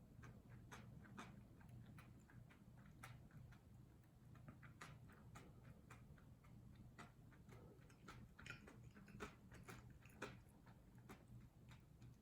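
Faint eating sounds: irregular small clicks and taps, like a spoon on a dish and mouth noises while chewing fried rice, over a steady low hum.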